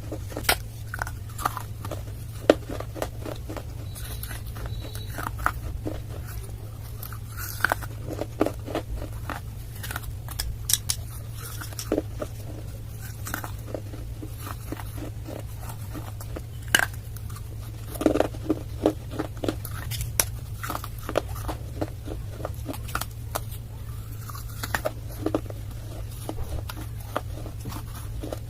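A person biting and chewing crunchy clay, with irregular sharp crunches that come in clusters. A steady low hum runs underneath.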